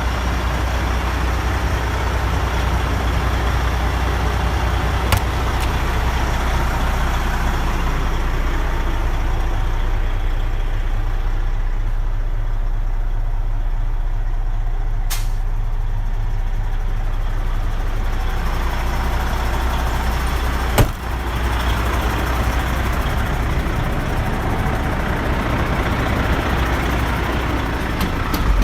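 Heavy diesel engine of a 2005 Freightliner Columbia 120 truck idling steadily with a deep low hum, broken by a few sharp clicks, the loudest about two-thirds of the way through.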